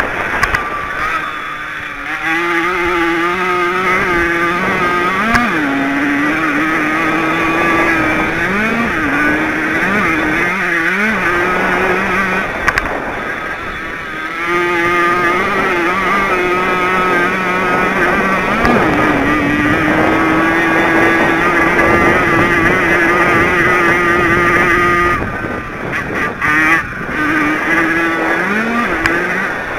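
Jawa 50 two-stroke racing engine at high revs, heard on board. The pitch holds high along the straights and dips and rises again with the throttle, easing off twice, about halfway through and near the end.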